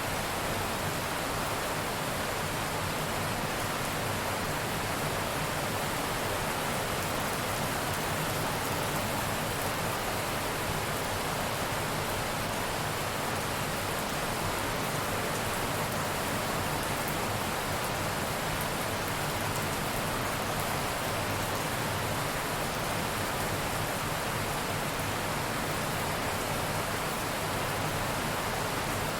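Steady heavy rain, an even hiss that holds at one level throughout.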